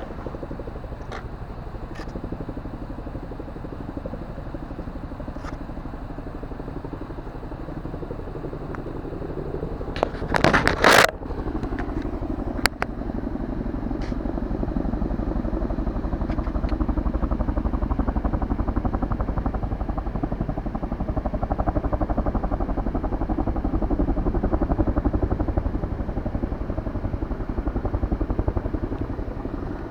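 Kawasaki Z1000 inline-four motorcycle engine running under way, with wind noise. A short loud rush of noise comes about ten seconds in, and the engine grows louder from about halfway.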